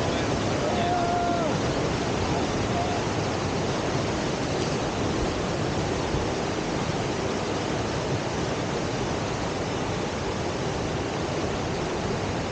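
Steady rushing of whitewater at a standing river surf wave on the Deschutes River.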